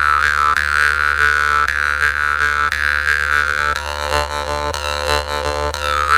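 Khomus (Yakut jaw harp) playing a steady buzzing drone on one pitch, with a bright overtone melody shifting and pulsing above it.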